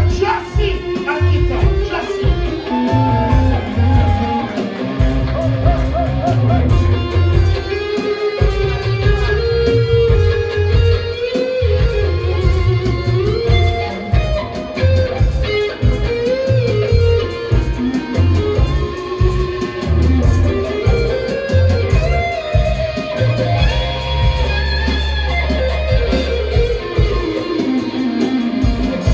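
Live roots reggae band playing an instrumental stretch: a heavy bass line and drums under a wandering lead melody, with electric guitar.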